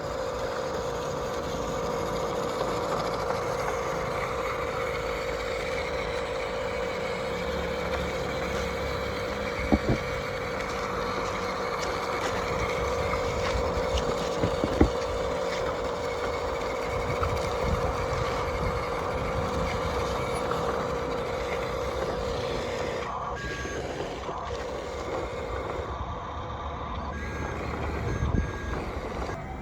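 Remote-controlled toy construction truck sounding a reversing-alarm tone over the whir of its electric motors and gears, with a couple of sharp clicks. The tone stops a few seconds before the end, leaving the motor and gear noise.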